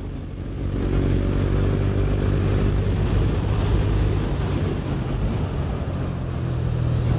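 KTM Duke motorcycle engine running under throttle, getting louder about a second in as it pulls and then holding steady, heard through a helmet microphone with a steady hiss of wind noise.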